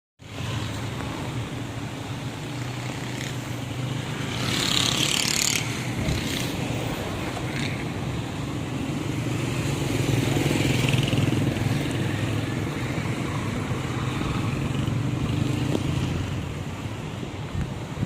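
Motor vehicle running steadily with a continuous low engine hum and road noise. A brief hissing burst comes about five seconds in.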